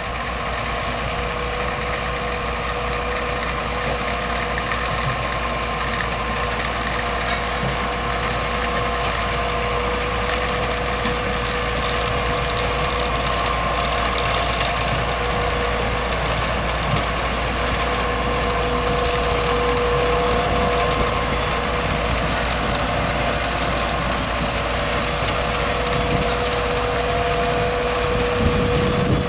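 Case IH Magnum 200 CVT tractor and trailed Grimme SE 85-55 potato harvester running while lifting potatoes: a steady mechanical din with a held whine, slowly growing louder.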